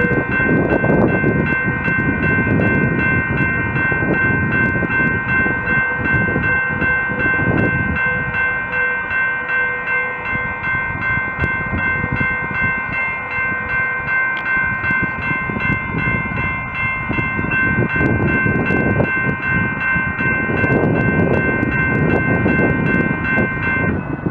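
Railroad crossing bell ringing steadily at a crossing over the low rumble of a passing train.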